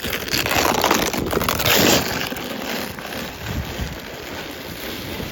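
A sled sliding down a snowy slope, a crunching, scraping hiss over packed snow. It starts suddenly, is loudest in the first two seconds, then eases to a quieter steady slide.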